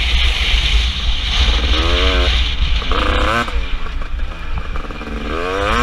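KTM 250 SX two-stroke motocross engine being ridden hard: it revs up and falls back several times, the pitch climbing and dropping, over a heavy low rumble.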